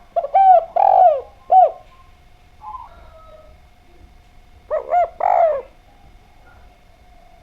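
Spotted dove (derkuku, tekukur) cooing in two phrases: four coos just after the start, the third the longest, and three more about five seconds in. A faint steady tone runs underneath.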